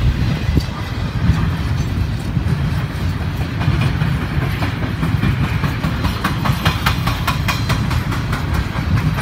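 Empty intermodal well cars of a freight train rolling past: a steady low rumble with the wheels clacking over rail joints. The clacks come thicker and faster in the second half.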